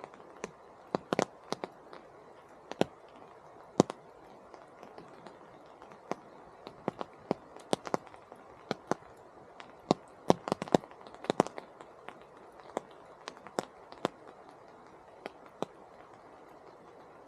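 Rain in a forest: large drops fall irregularly and close by, giving sharp taps a few times a second, some much louder than others. Under them runs a steady soft hiss of rain.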